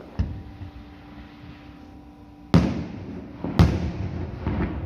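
Fireworks shells bursting: a small bang just after the start, then two loud booms about a second apart past the middle, each trailing off slowly, and a weaker one near the end.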